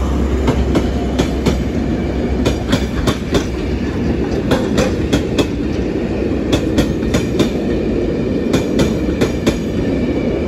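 A train rolling past over the level crossing: a continuous loud rail rumble with its wheels clicking over the rail joints in pairs and small groups, clickety-clack.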